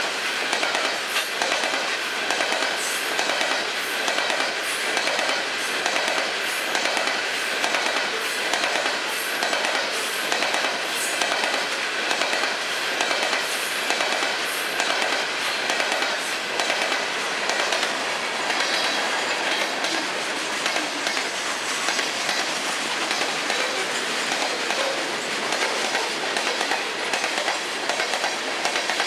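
Freight train cars, first coal hoppers and then tank cars, rolling past with a steady rumble, their steel wheels clacking over rail joints in a rhythm of roughly once a second.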